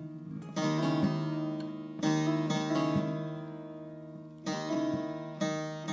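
Instrumental passage of a Turkish folk song: a plucked string instrument playing single struck notes that ring and fade, over a steady low drone.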